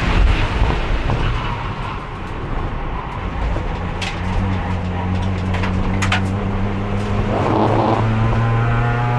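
Race car engine heard from inside the car, pulling under load in fourth gear, the only gear the failing transmission will hold. Its pitch climbs slowly over the last several seconds as speed builds. Wind and road noise run throughout, with a few sharp clicks about four and six seconds in.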